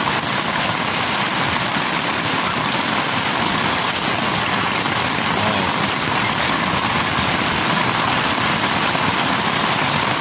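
Heavy, torrential thunderstorm rain pouring down in a steady, unbroken hiss.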